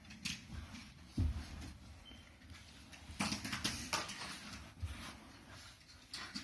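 Small die-cast toy cars and plastic track parts clicking and clattering, with a low thump about a second in and a run of rattles around three to four seconds in.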